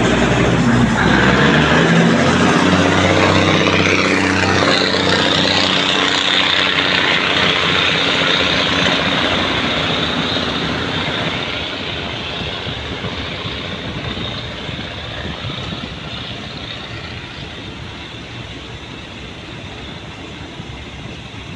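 Diesel train accelerating away from a station: the engine note climbs in pitch over the first few seconds under heavy throttle. The rumble of the train then slowly fades as it draws away.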